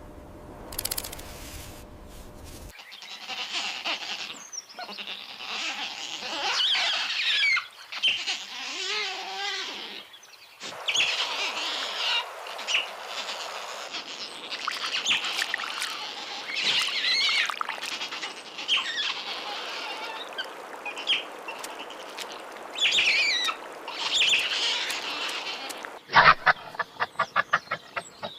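High, bird-like animal chirps and squawks, in several short clips one after another. Near the end comes a quick run of sharp clicks.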